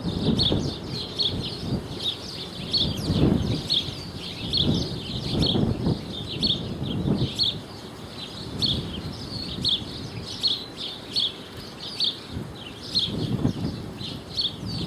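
Small birds chirping: short, high chirps repeating a few times a second, with a gusty low rumble underneath.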